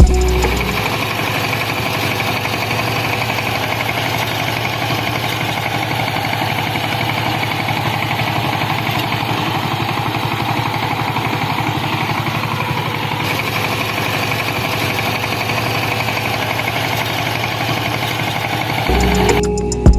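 Homemade model thresher machine running steadily, a fast even mechanical rattle and hum that stops just before the end.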